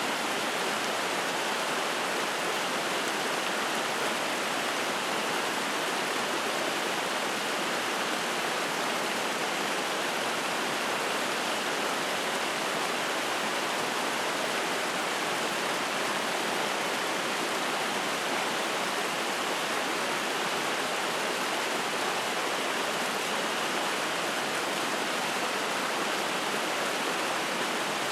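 Spring-fed mountain stream running and splashing over rocks: a steady, even rush of water.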